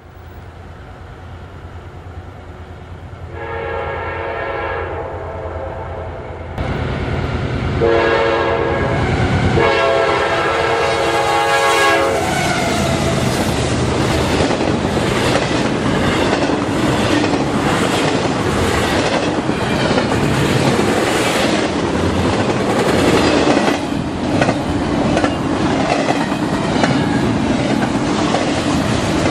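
Freight locomotive air horn sounding three blasts, the last two close together, the warning for a grade crossing, over the growing rumble of the approaching train. From about twelve seconds in, the double-stack intermodal cars roll past with steady wheel clatter and rumble.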